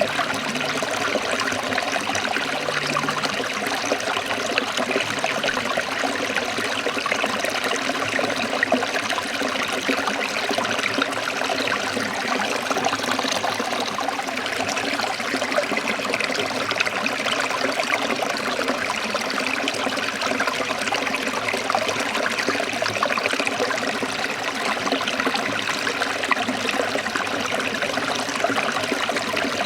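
Forest stream of running water, trickling and splashing steadily.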